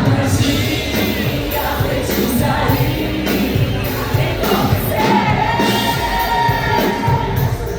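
Pop song: a woman singing over a band, holding one long note near the end, with crowd noise behind.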